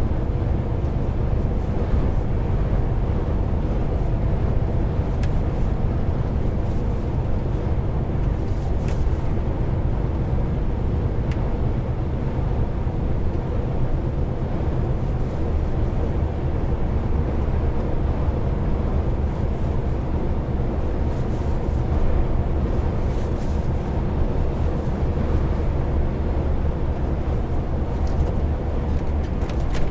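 Heavy truck driving along at a steady pace: a continuous low engine drone with road and tyre noise, heard from inside the cab.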